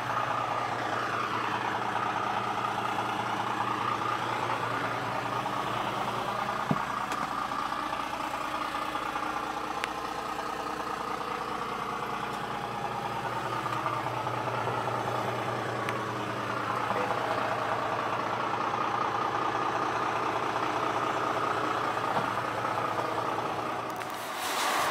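Isuzu Elf truck's 4HL1 4.8-litre non-turbo diesel engine idling steadily.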